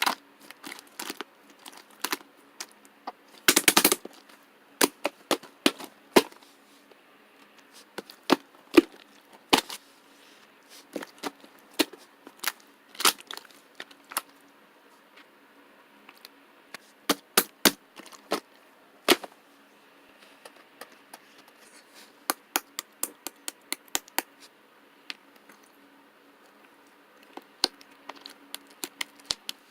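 Chewy white marbled slime being squeezed and folded by hand, giving sharp, irregular pops and clicks as trapped air bursts, with a dense rapid run of pops about four seconds in.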